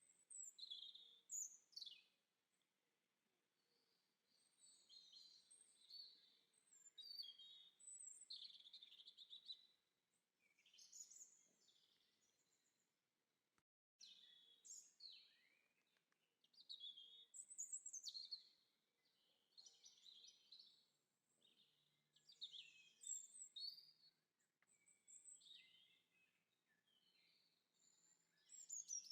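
Songbirds chirping and twittering, faint: many short high chirps and trills from several birds in bursts. The sound cuts out completely for a moment about halfway through.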